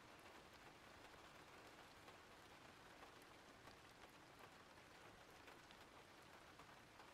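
Faint, steady rain, with scattered sharper drop ticks through it.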